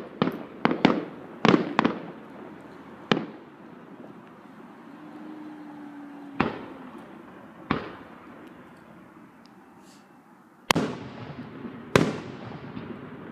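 Fireworks display: aerial shells bursting with sharp bangs, a quick run of them in the first two seconds, then single bangs a few seconds apart, and two loud ones near the end, each followed by a long echoing tail.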